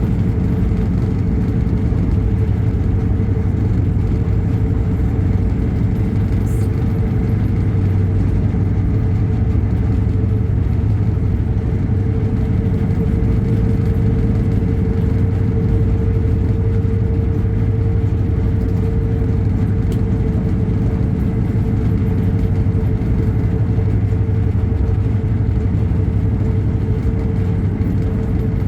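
Steady running noise of a moving vehicle: a constant low engine drone with a steady humming tone, unchanging throughout.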